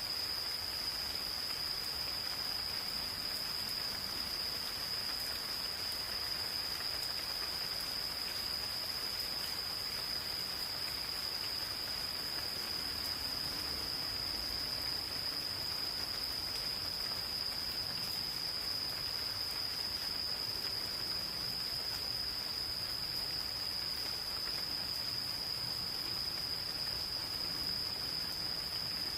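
Gentle rain falling in a forest, with insects giving a steady, unbroken high-pitched trill throughout.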